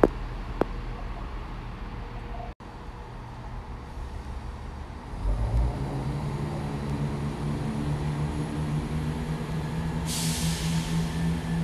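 Train on the line behind the hedge: a low rumble with a steady hum that starts about five seconds in and carries on, with a short burst of air hiss about ten seconds in.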